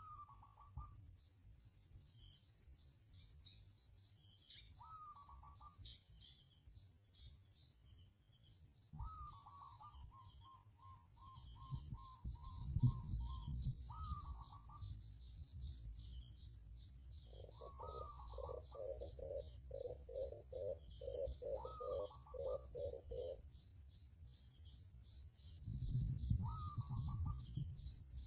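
Birds chirping: rapid high chirps run on without a break. A lower, falling call, sometimes followed by a short pulsing series, recurs every four to five seconds. Underneath is a low rumble that swells around a third of the way in and again near the end.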